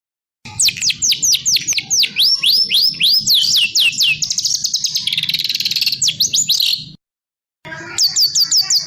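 Songbird song: runs of sharp, high whistled notes, each sweeping steeply downward, several a second, with a buzzy trill in the middle. It cuts off abruptly about seven seconds in and resumes half a second later with another quick run of the same falling notes.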